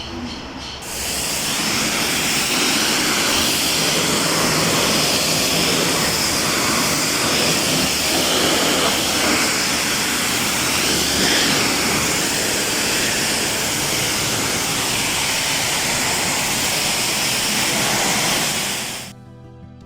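High-pressure car-wash wand spraying water onto a car, a loud steady hiss that starts about a second in and cuts off abruptly near the end.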